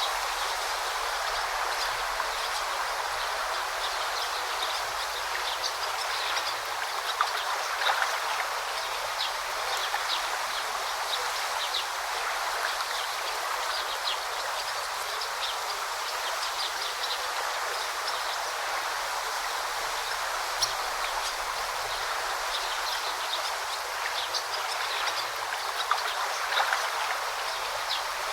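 Forest stream babbling steadily, with short high bird chirps scattered through it.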